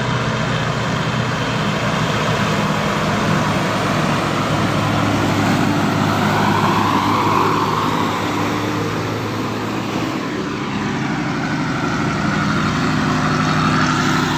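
Diesel truck engines running under load as trucks pass on a hill climb, a steady low engine note with a pitch sweep about ten seconds in as the engine note changes.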